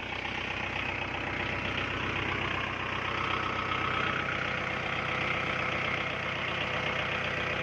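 Diesel tractor engine running steadily at raised revs under load, with a rough knocking beat, while a tractor stuck deep in mud is worked free.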